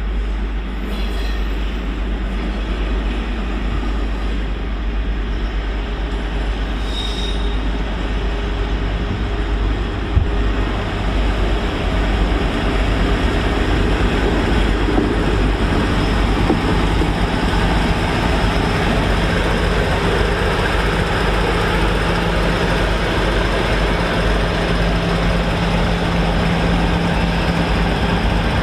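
Colas Rail Class 56 diesel-electric locomotive running light engine, its diesel engine droning steadily with a low rumble; a steady engine tone grows stronger about halfway through.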